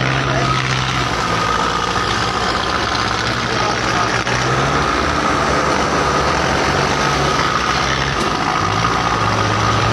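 Belarus 510 tractors' four-cylinder diesel engines running under work. The engine note shifts up and down a little a few times.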